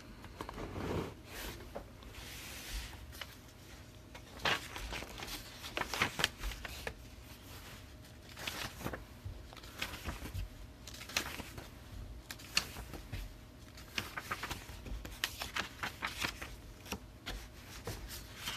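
Faint handling noise at a table: irregular small clicks and short rustles, a few every second.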